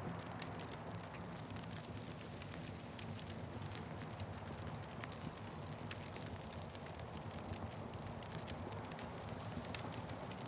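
Wood fire crackling: frequent small, irregular pops and snaps over a steady low rush of burning.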